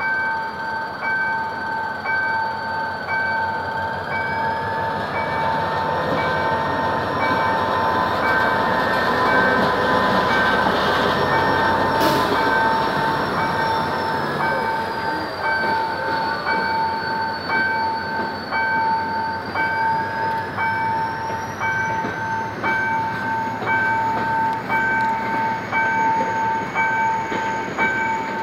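GM GT-22CW diesel-electric locomotive working hard as it pulls a passenger train away from the station, its rumble swelling as it passes, then the coaches rolling by with wheel clatter and a sharp clack about twelve seconds in. A level-crossing warning alarm sounds throughout, a steady ringing tone with evenly repeating pulses.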